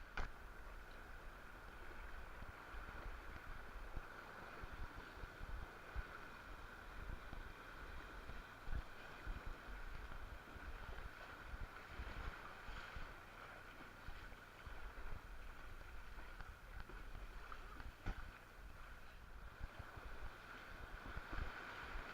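Water and wind noise aboard an inflatable canoe on a river: a steady rushing hiss, with wind buffeting the microphone and a few faint knocks.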